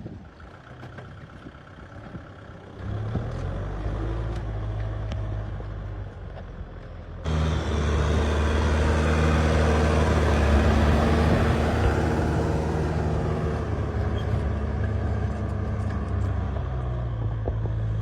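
Tractor engine running steadily under load. It grows louder about three seconds in and jumps suddenly louder about seven seconds in.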